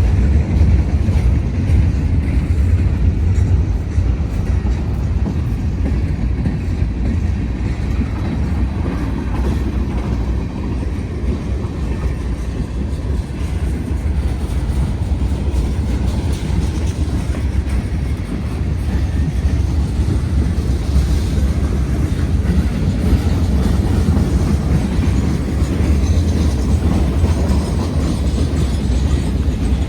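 Union Pacific freight train rolling past a grade crossing: a loud, steady rumble with the clatter of wheels on the rails.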